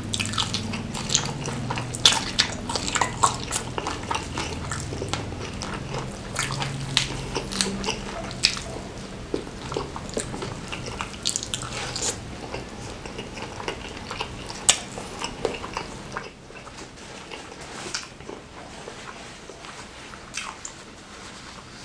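Close-miked eating of sambal-smothered fried chicken: wet biting, chewing and sharp mouth smacks. The sounds come thick for most of the stretch, then grow sparser and quieter near the end.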